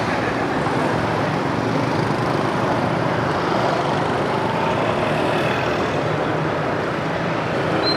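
Steady street traffic: motorbikes and cars running past in a continuous wash of engine and road noise.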